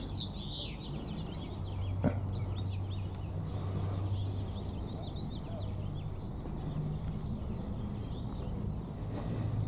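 A small bird chirping over and over: short, high, slightly falling notes about one and a half a second, over a low steady hum.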